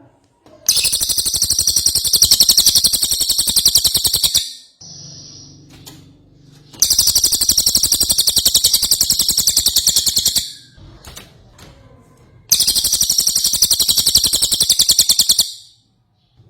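A cililin songbird in full song: three long bouts of very fast, evenly repeated high notes, each about four seconds long, with short pauses between them.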